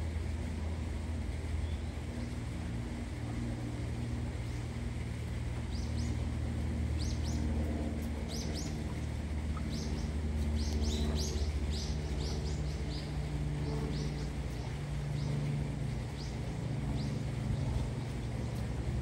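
Small birds chirping in short, high, quick calls, thickest through the middle, over a steady low background rumble.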